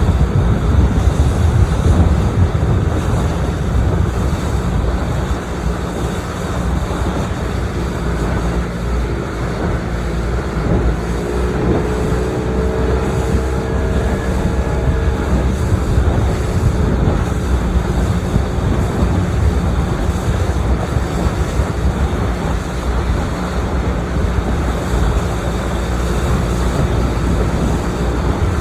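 Boat under way on a lake: a steady low motor rumble mixed with wind buffeting the microphone and water rushing past the hull.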